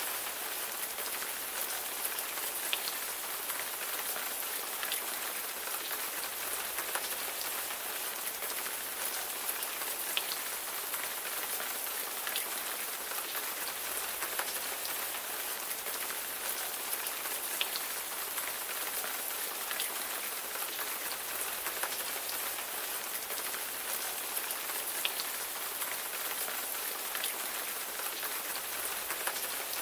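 Steady rain falling on a surface, an even hiss dotted with many fine drop ticks and an occasional louder drip.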